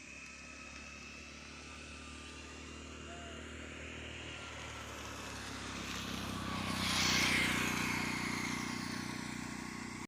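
A motor vehicle passing close by: engine and tyre noise build steadily to a peak about seven seconds in, ease off, then cut off suddenly.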